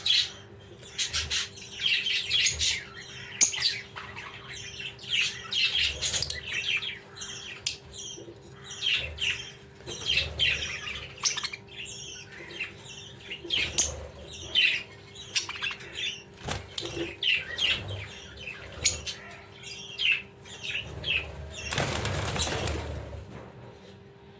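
Budgies chirping and chattering in quick, repeated short calls, with a longer rush of wing flapping near the end. A faint steady hum sits underneath.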